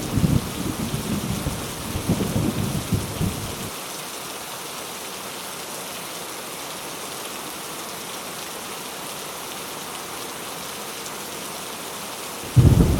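Heavy rain falling steadily with rumbling thunder. The low thunder rumble cuts off a few seconds in, leaving only the steady rain hiss, and a loud rumble of thunder breaks in suddenly near the end.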